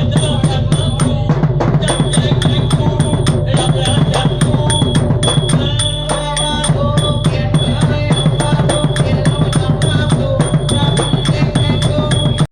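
Southern Thai nora ensemble music: fast, dense drumming with a continuous run of bright metallic strikes over it.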